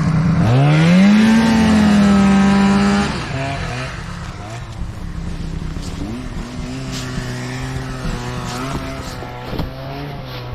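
Snowmobile engine revving: the pitch climbs sharply about half a second in and holds high for a couple of seconds. It drops back at about three seconds and runs on more quietly at a wavering throttle.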